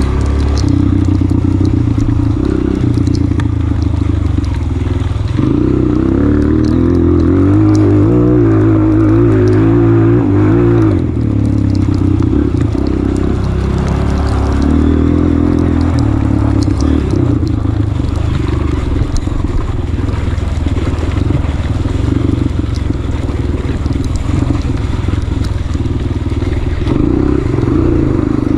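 Honda CRF230F's air-cooled single-cylinder four-stroke engine under way on a trail, its revs rising and falling with the throttle. The engine pitch climbs and wavers from about five seconds in, then drops sharply around eleven seconds, with scattered light clicks and clatter over it.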